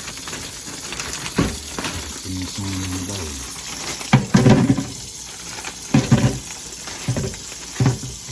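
Water running steadily from a kitchen tap into the sink, with several loud bursts of handling noise, rustling and clunks, as frozen chicken wings are handled at the sink.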